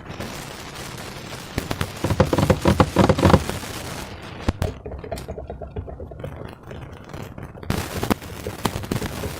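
Slime being squished and stretched by hand, with runs of rapid crackling pops, loudest about two to three and a half seconds in and again near the end.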